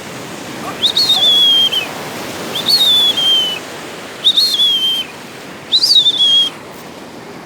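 A person whistling to call a dog: four loud whistles in a row, each jumping up and then sliding down in pitch, about one and a half seconds apart, over a steady rush of surf.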